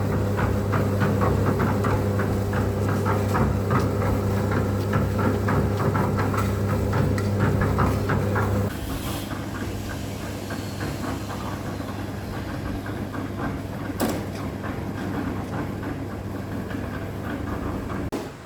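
An engine running with a steady low hum and a fast rattle. The hum cuts out suddenly about nine seconds in, leaving a quieter, rougher rattle, with a single sharp click a few seconds later.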